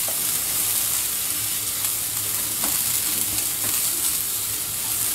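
Grated fresh coconut and sugar dry-roasting in a non-stick kadhai over a gas flame, hissing steadily while a spatula stirs it, with a few soft scrapes. The coconut is being roasted until golden.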